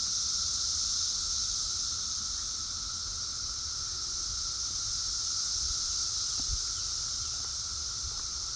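A chorus of periodical cicadas droning steadily and without a break, peaking at about 75 to 80 decibels. It is a high, hissing drone with a lower steady hum beneath it.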